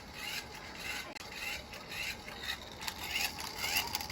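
Rhythmic rubbing or scraping strokes, about two a second.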